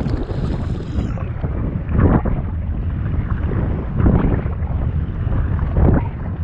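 Wind buffeting the microphone, with a splash of water on choppy sea about every two seconds, from a kayak under way.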